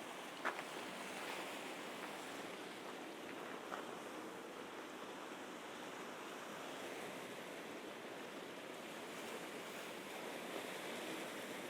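Mediterranean sea waves washing steadily on the shore. A couple of sharp clicks come in the first few seconds.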